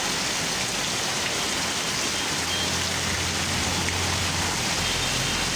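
Steady rain falling and pattering on surfaces, a fairly loud, even hiss. A low hum runs under it for a couple of seconds in the middle.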